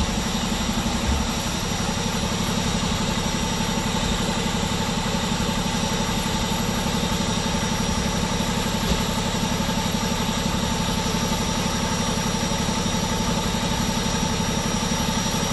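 A vehicle engine idling steadily, an even low rumble with no change in speed.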